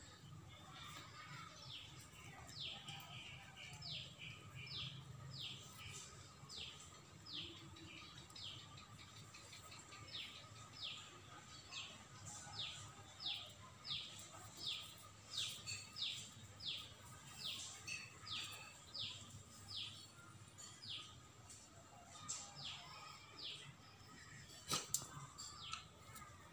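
A bird calling over and over in a long string of short, high chirps, each one falling in pitch, about one or two a second.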